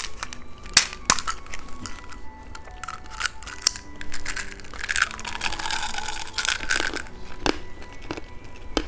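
Candy being eaten close to the microphone: scattered sharp crunches and clicks, with a longer rustling crunch about five to seven seconds in, over soft background music.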